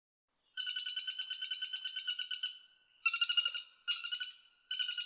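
Woodpecker calling: a fast run of repeated pitched call notes, about seven a second, in three bouts with short breaks between them.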